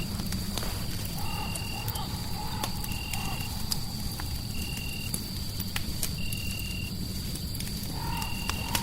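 Crackling fireplace: scattered sharp pops and snaps over a steady low rumble, layered with a short high chirp that repeats about every second and a half, a thin steady high tone, and a wavering mid-pitched call that comes in twice.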